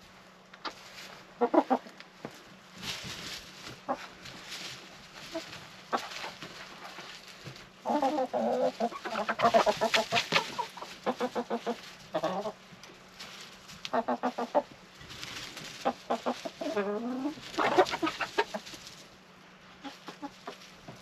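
Backyard laying hens clucking and calling in short repeated phrases, busiest in the middle with several birds calling over one another, and one drawn-out call sliding in pitch near the end.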